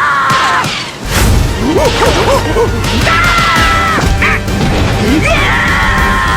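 Cartoon larva characters' high, squeaky wordless voices, several sliding and wailing calls in turn, over background music and a few short slapstick hits.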